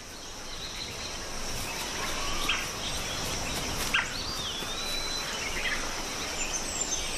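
Forest ambience: a steady high-pitched insect drone over a hiss, with a few short bird chirps and whistles in the middle.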